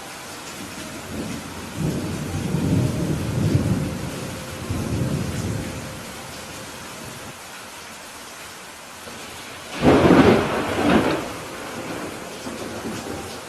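Steady rain with thunder: a low rolling rumble builds about two seconds in and fades a few seconds later, then a louder, sharper clap of thunder comes near the ten-second mark.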